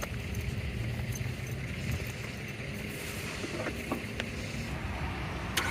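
A vehicle engine running at a low, steady idle, with a few light clicks. Right at the end a sharp click is followed by a louder, rougher engine sound.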